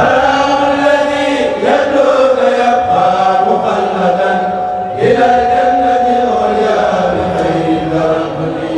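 A kourel, a group of voices chanting Mouride religious poems (khassaides) in chorus, holding long drawn-out notes. A new phrase begins about five seconds in.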